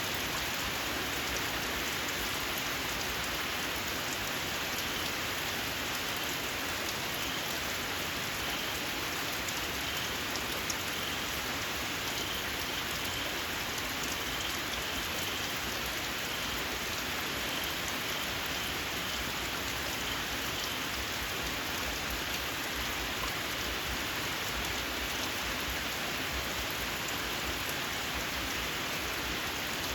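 Steady rain falling on surfaces. From about a quarter of the way in until about two-thirds through, a small frog gives a faint, repeated series of short, high chirps about once or twice a second over the rain.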